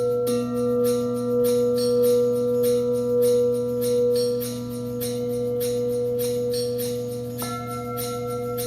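Crystal singing bowls ringing in long, steady, pure tones that overlap. A new lower bowl comes in just after the start and a higher one near the end. Over them runs a quick, even patter of high, bright ticks, about three or four a second.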